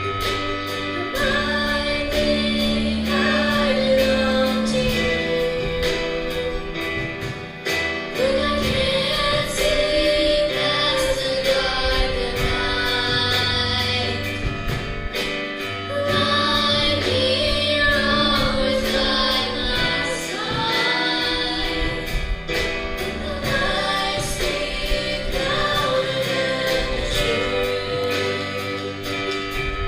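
Christian worship song with a female lead voice singing over a backing of voices, steady drum beat and sustained bass notes.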